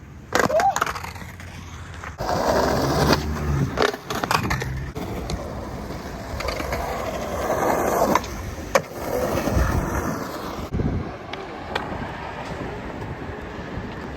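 Skateboard rolling on wet pavement, with several sharp clacks of the board hitting the ground, the strongest about nine seconds in.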